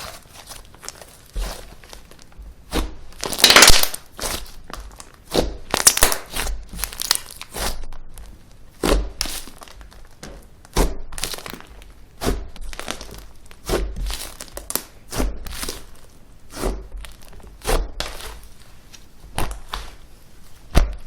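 Slime being squeezed and pressed by hand, giving a run of sharp crackling pops and squishes about once a second, the loudest a little over three seconds in.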